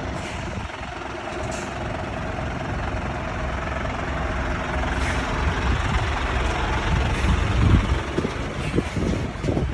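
Scania P360 truck's diesel engine running, growing gradually louder and peaking about three-quarters of the way through.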